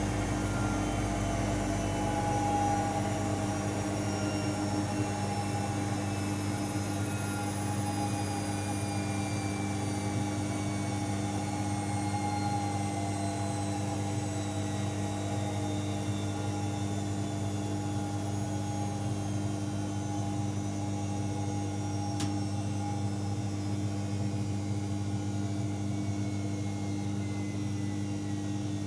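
AEG Electrolux Lavamat L74810 washing machine slowing down after a spin: the motor and drum whine falls slowly and steadily in pitch over a steady hum, with a single click about 22 seconds in.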